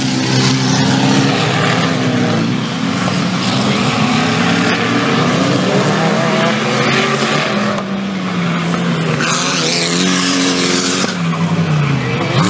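4WD off-road race vehicles' engines revving and running hard, their pitch rising and falling as they accelerate and lift off. A loud hissing rush about three-quarters of the way through is typical of tyres skidding and throwing dirt.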